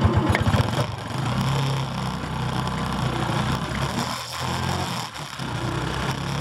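Motorbike engine running while pacing track cyclists, with a fast low pulsing in the first second that settles into a steady hum.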